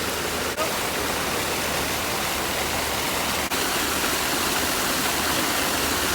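Steady rushing of water at the seashore, broken by two very brief dropouts.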